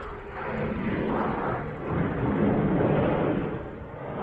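Jet noise from F-16 fighter jets flying past: a broad rushing roar that swells to its loudest about two to three seconds in, then begins to fade.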